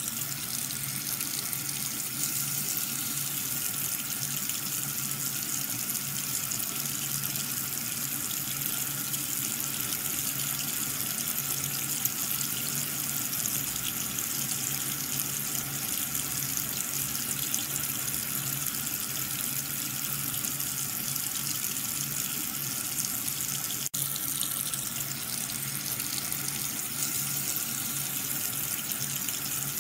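Water running and splashing steadily from a small homemade water pump's jet, with a faint steady hum underneath.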